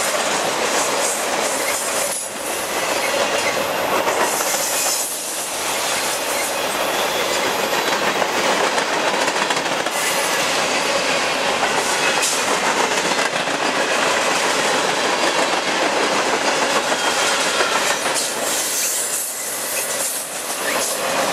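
Cars of a mixed freight train rolling past close by: steel wheels running over the rails in a steady, loud rumble and clatter, dipping briefly twice.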